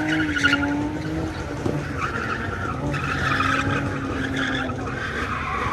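Vehicle tires squealing against the pavement in a sustained burnout, with an engine held at high revs underneath.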